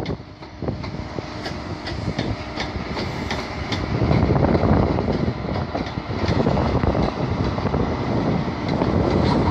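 A First Great Western High Speed Train passing slowly, its wheels clicking over rail joints. The train's sound grows louder about four seconds in as its Class 43 diesel power car comes by close with its engine running.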